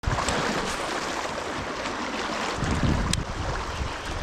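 Rushing river water, a steady hiss, with wind buffeting the microphone as a low rumble that strengthens about two-thirds of the way in, and a single sharp click shortly after.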